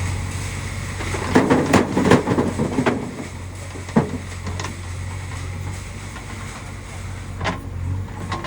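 Diesel engine running steadily while rocks are dumped into a tractor trolley: a burst of loud clattering knocks starts about a second in and lasts a couple of seconds, with a single sharp knock a little later and a fainter one near the end.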